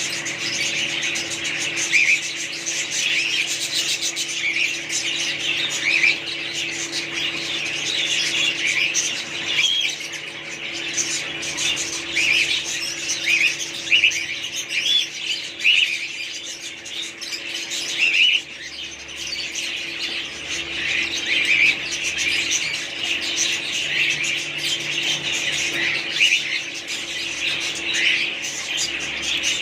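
Many small parrots chirping and squawking over one another in a continuous chatter of short, high calls. A steady low hum runs underneath.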